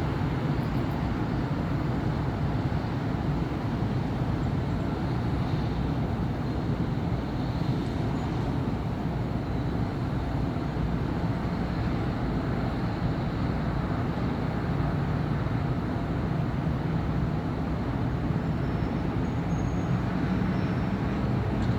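Steady city street traffic: a continuous low rumble of cars, buses and trucks passing on a busy avenue.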